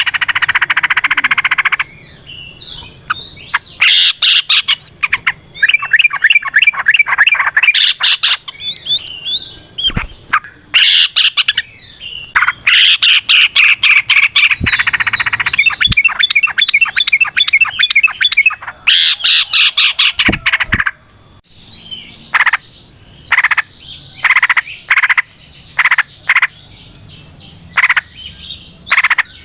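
Yellow-vented bulbul (trucukan) singing in repeated bursts of rapid, chattering notes: the long rolling "ropel" song used to provoke other bulbuls into singing.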